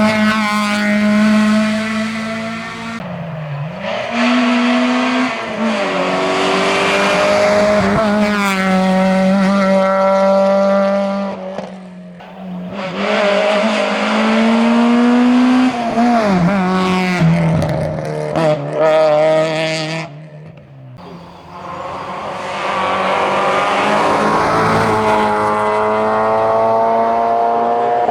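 Citroën Saxo hillclimb cars accelerating hard, the engine pitch climbing and then dropping back at each gear change. About two-thirds of the way through there is a brief lull, and then a second Saxo revs up through the gears.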